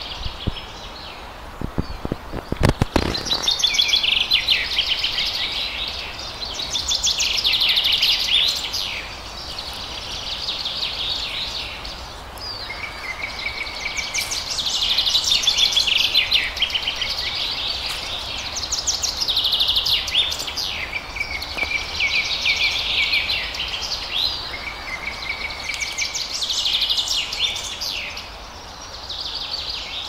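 Songbirds singing in the trees, with repeated bursts of fast chirping trills and a few short steady whistles, over faint outdoor background noise. A few low thuds of wind or handling on the microphone near the start.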